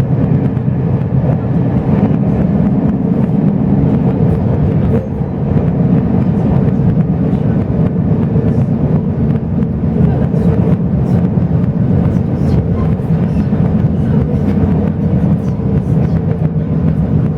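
Steady running rumble of a Chu-Kuang Express passenger coach moving along the track, heard from inside the carriage, with faint clicks over it and a brief dip about five seconds in.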